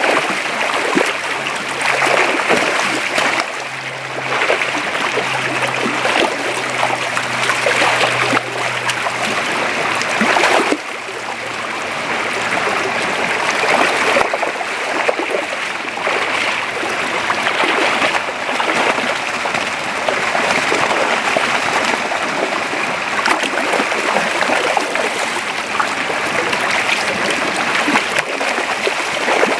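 Creek water flowing steadily, with small surges in the rush of water. A faint low hum runs under it for roughly the first ten seconds.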